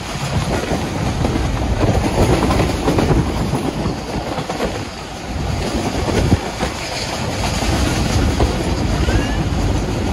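Millat Express passenger train running, heard from on board a coach: a steady rumble with the wheels clattering over the rails.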